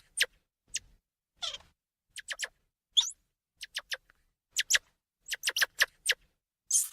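A small animal giving short, sharp, high squeaks or chirps in quick clusters of two to four, some sliding down in pitch, with silent gaps between.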